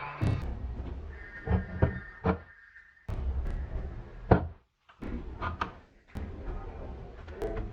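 A series of sharp clicks and knocks from handling the metal parts of an adjustable wrench, broken by abrupt cuts, with a short silent gap near the middle.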